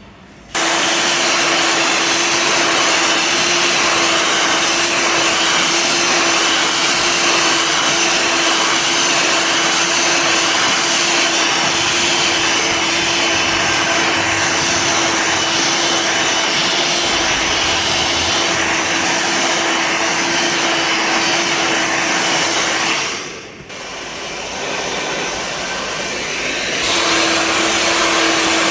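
Handheld hair dryer switched on, blowing steadily with a constant hum. Near the end it dips sharply, runs quieter for a few seconds, then comes back to full strength.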